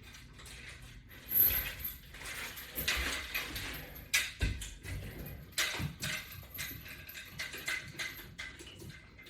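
Metal chains and hardware of a resistance-band bar rig clinking and rattling as the bar is pressed, with a sharper clack about every second and a half.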